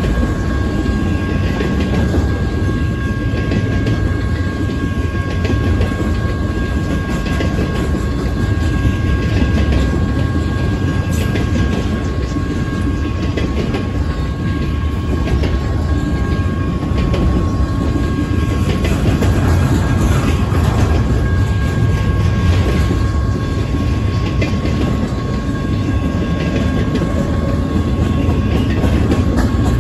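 Double-stack intermodal container cars rolling past at speed: a steady heavy rumble of steel wheels on rail, with a clickety-clack as the trucks cross rail joints.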